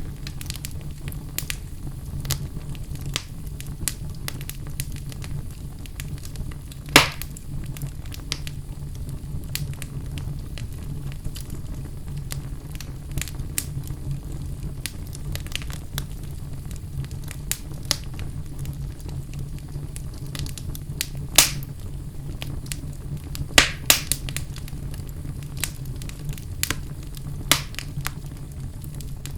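Wood fire burning in a fireplace: a steady low rumble of flame with scattered sharp crackles and pops, a few louder pops about a quarter of the way in and again past the two-thirds mark.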